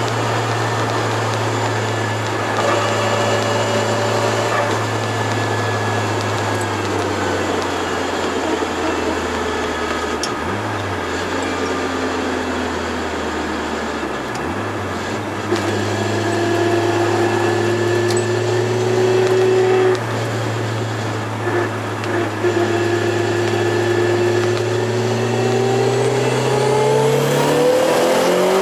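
Turbocharged Toyota AE86 driving at steady engine revs, with two brief dips in pitch around the middle. The revs climb near the end.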